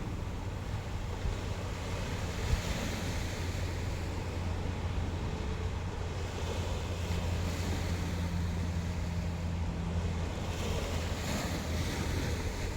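Sea waves washing ashore in a steady wash, with wind buffeting the microphone in a constant low rumble.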